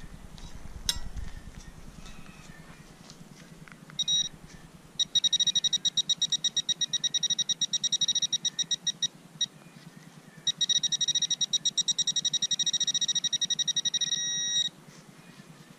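Teknetics Tek-Point pulse-induction pinpointer alarm: a short beep, then two runs of rapid high-pitched beeping, several beeps a second, each lasting about four seconds, the second ending in a brief steady tone. The fast beeping signals the probe is right on a metal target. A sharp click about a second in.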